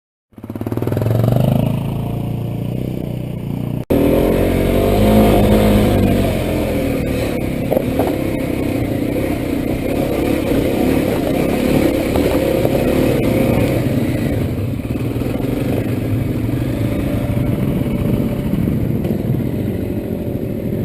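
Single-cylinder dual-sport motorcycle engine running under way with a steady, wavering note. It briefly cuts out about four seconds in and comes back louder.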